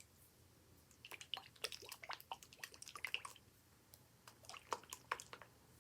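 A jar of sunflower oil with dried herbs and flowers being shaken by hand: faint sloshing and clicking, in a longer spell and then a shorter one near the end.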